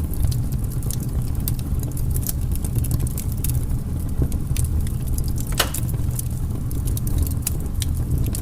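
Firewood burning, with a steady low rumble of flame under many sharp crackles and pops; one louder pop comes about five and a half seconds in.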